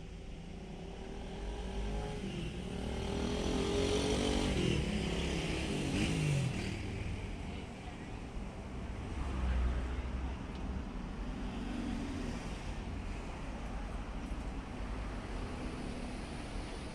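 Motor vehicle sound over a steady traffic-like rumble: an engine note swells and glides up and down, loudest a few seconds in, then falls back.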